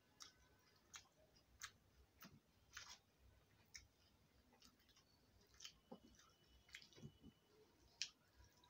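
Faint chewing and wet mouth clicks of someone eating rice by hand, with scattered short clicks as fingers mix rice on a steel plate.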